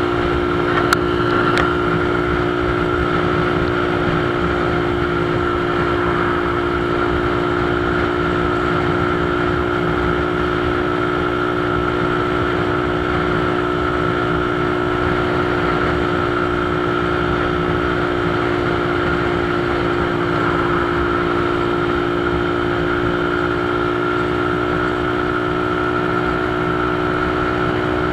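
Motorcycle engine running at a steady cruising speed, a constant drone with no rise or fall in pitch, with a short click about a second in.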